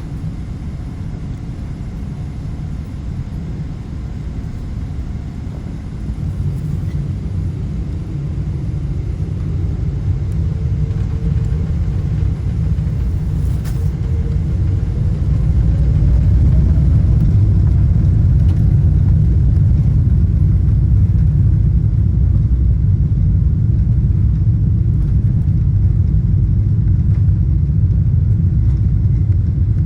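Boeing 777-200 cabin noise: a low rumble of engines and wheels that grows steadily louder, with a rising engine whine from about ten seconds in and a jump in level a few seconds later as the engines spool up for takeoff.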